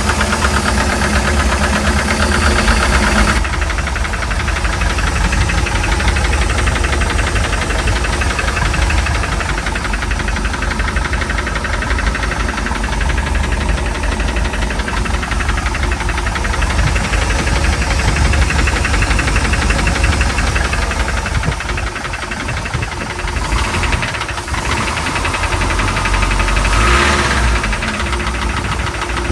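Mercruiser 3.7 four-cylinder marine engine running with a steady knock, typical of bad bearings.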